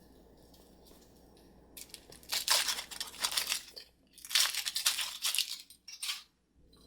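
A toy's wrapper being torn open and crumpled by hand, in two long bouts of crinkling, then a brief third one.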